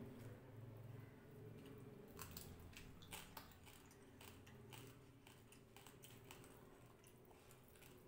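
Quiet eating sounds: fingers squishing rice and fish on a plate and wet, clicking chewing of a mouthful. The sharpest clicks cluster from about two to five seconds in.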